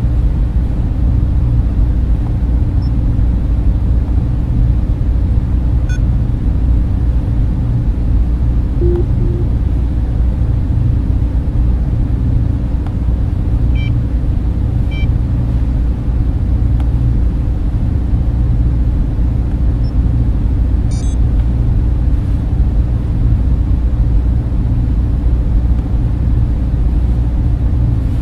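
Server-room cooling fans running: a deep, steady noise with most of its weight low down and a faint steady tone above it. Two tiny short blips come about nine seconds in.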